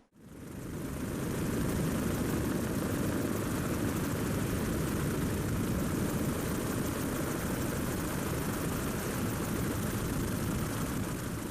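Steady helicopter engine and rotor noise, fading in over the first second or so.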